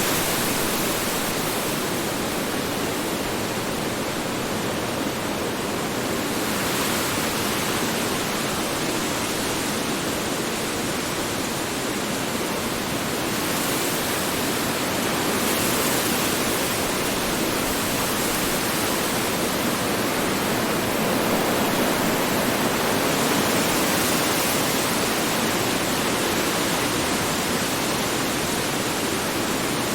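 Strong wind blowing steadily, a dense rushing hiss that swells and eases in slow gusts every several seconds.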